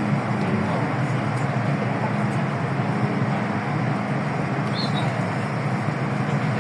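Hong Kong MTR M-Train carriage running between stations, heard from inside the car: a steady rumble of wheels and track with a low, even hum underneath.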